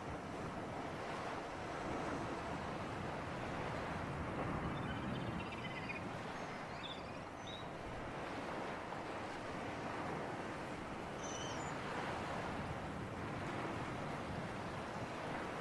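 Sea waves washing on the shore with a sea breeze, a steady noise that swells and eases gently. Small birds chirp briefly a few times around the middle.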